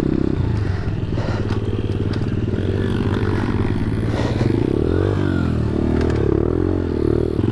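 Small pit bike engine running under riding throttle, its pitch rising and falling as the rider rolls the throttle on and off, with a dip about five seconds in.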